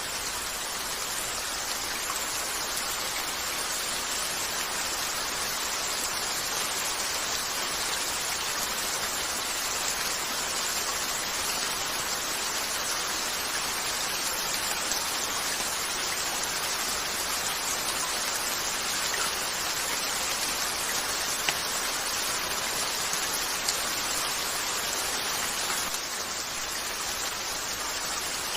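Steady rain pattering on a window, with a few faint sharp crackles from a wood fire here and there in the second half.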